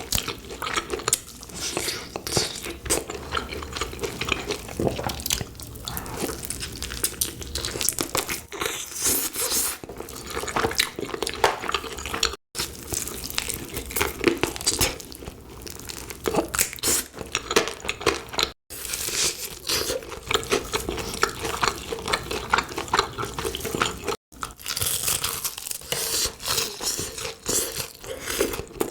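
A person eating: crunchy bites and chewing, in a run of short crackly sounds broken three times by a brief silent gap.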